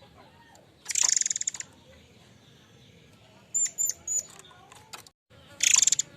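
Murai air mancur calling: two loud, rapid buzzing rattles, one about a second in and one near the end, with three short, high, whistled notes between them.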